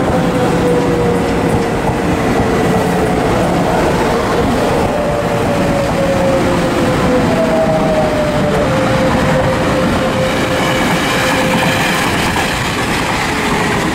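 Taiwan Railways EMU500 electric commuter train running slowly into the station along the platform: a steady rumble of wheels on rails with a whine that slowly falls in pitch as the train slows.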